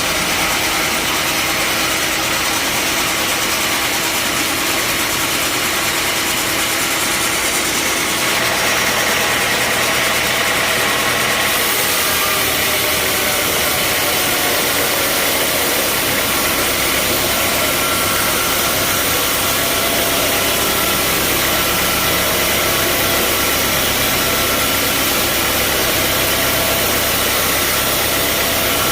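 Band sawmill machinery running steadily: a constant loud mechanical noise with a few steady tones in it, changing character slightly about eight and twelve seconds in.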